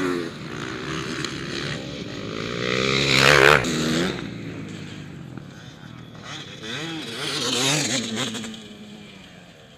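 Motocross bikes racing past with their engines revving up and down. The loudest goes by about three and a half seconds in and another near eight seconds, then the sound fades away.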